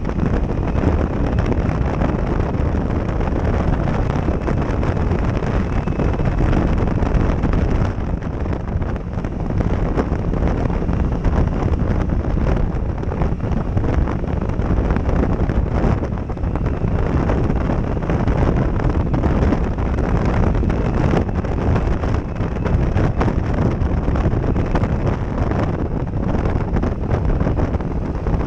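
Heavy wind noise buffeting a GoPro Session camera's microphone while riding a motorcycle at road speed: a dense, steady rush that covers almost everything else.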